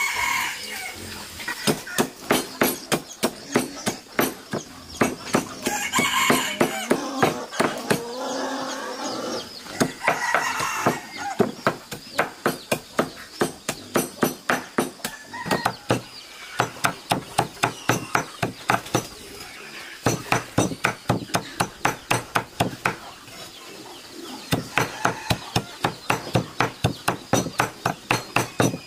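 Runs of sharp, rhythmic knocks, about three a second, with short pauses between runs, and chickens clucking and squawking, loudest near the start and around 6 and 10 seconds in.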